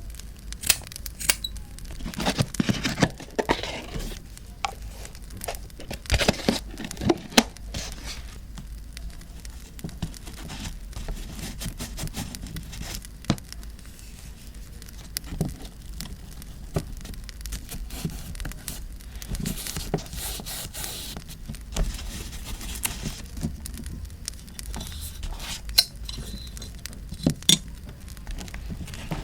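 Paper rustling, crinkling and tearing close to the microphone, in irregular swells, over a campfire crackling with scattered sharp pops.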